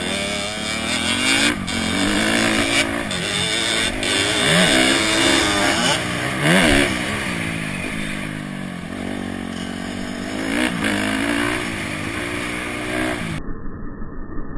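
Honda CRF250X's single-cylinder four-stroke engine revving up and down again and again as the bike is ridden. Near the end the sound abruptly goes muffled.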